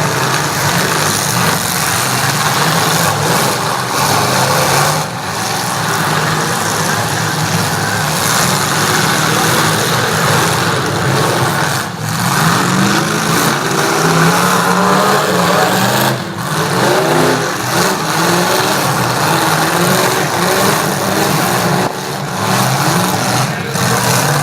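Several demolition-derby truck engines running hard and revving, their pitch rising and falling over a loud, steady din.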